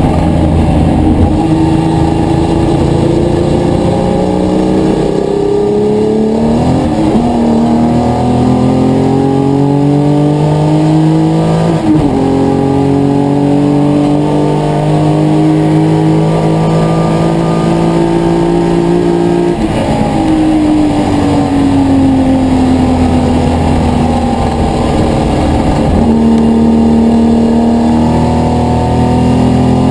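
Historic touring car engine running hard at racing speed, its revs climbing and dropping sharply at about 7, 12 and 19 seconds as it shifts up through the gears. After that the revs fall slowly for several seconds, then rise again near the end.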